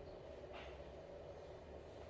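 Faint steady electrical hum of room tone, with one brief soft rustle about half a second in.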